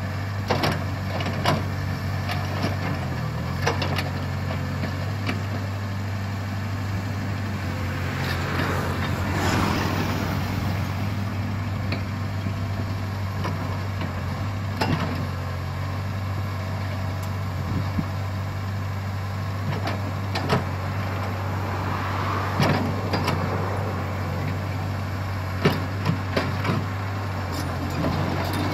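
Komatsu PC75 excavator's diesel engine running steadily, with sharp knocks scattered through and a few swells of louder noise as it works.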